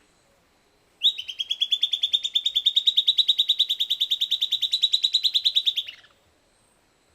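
Silvered antbird singing one song: a rapid, even series of sharp notes, roughly a dozen a second for about five seconds. The notes creep slightly upward in pitch and end in a brief falling slur.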